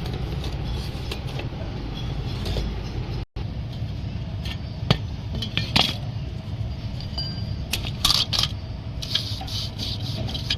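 Suzuki Cultus engine running with a steady low hum, with several sharp metallic clinks over it; the sound cuts out for a moment about three seconds in.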